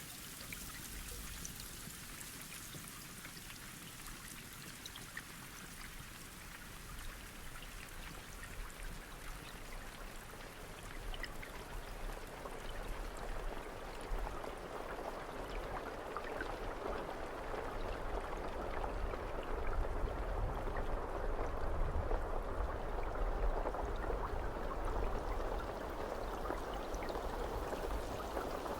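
Rain falling steadily with scattered drops. From about halfway through it grows louder and deeper, like a heavier downpour pouring down.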